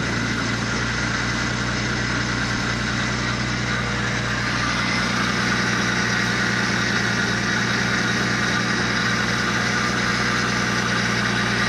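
Nissan Skyline R33 GTS-T's freshly rebuilt RB25DET turbocharged straight-six idling steadily on its first run.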